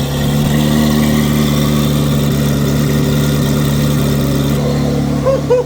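2024 C8 Corvette Z06's flat-plane-crank 5.5-litre V8 idling loud and steady through cat-delete exhaust pipes with the active exhaust valves open, stepping up slightly in volume just after the start.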